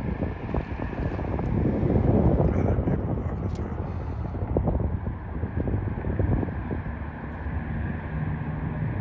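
Wind buffeting the microphone over a low, steady rumble of vehicles.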